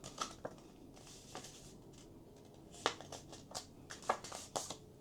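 A sheet of paper being folded and creased by hand: short, irregular crisp crackles and rustles, the sharpest around three and four seconds in.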